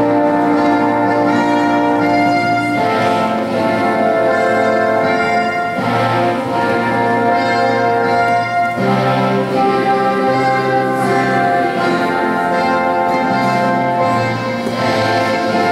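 Orchestral music led by brass, playing slow held chords that change every two to three seconds.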